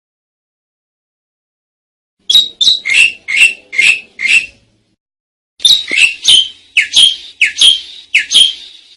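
Asian pied starling (jalak suren) calling: a run of about six loud, sharp notes starting about two seconds in, then after a short pause another run of about eight, at roughly three notes a second.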